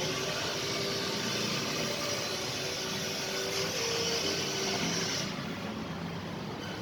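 Bajaj CT 100 motorcycle's single-cylinder four-stroke engine running steadily.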